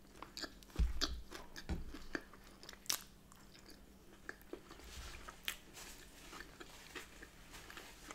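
Close-up mouth sounds of a person chewing a soft bagel with smoked salmon and cream cheese: irregular wet clicks and smacks. There are a couple of low thumps about one and two seconds in.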